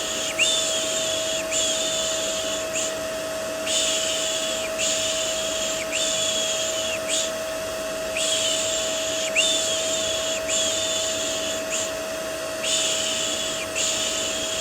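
Vacuum cleaner white noise running steadily with a constant motor hum. Over it, a looped "shh" shushing sound for soothing a baby repeats in sets of four hisses, a new set starting about every four and a half seconds.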